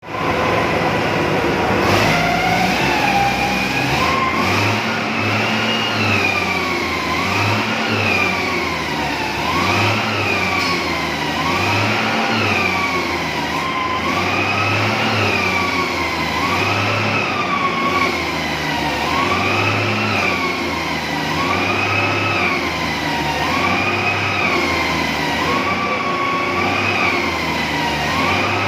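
A wailing siren whose pitch rises and falls about every two seconds, over and over, with a low throb pulsing in time with each cycle.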